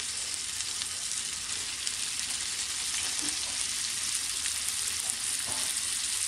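Oil sizzling in a pan as cleaned mutton boti (tripe and intestine pieces) are added onto fried onions and ginger-garlic paste: a steady frying hiss with faint crackles.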